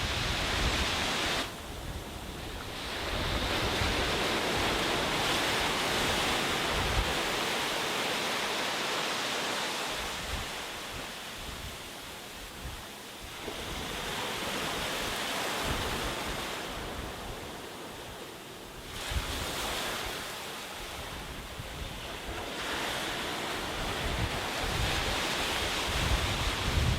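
Sea waves breaking and washing up a beach, the surf swelling and easing every several seconds, with low wind rumble on the microphone.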